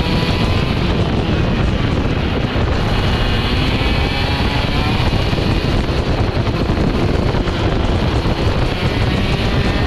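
Vortex ROK GP 125cc two-stroke kart engine heard on board at speed, its pitch rising and falling, with wind buffeting the microphone.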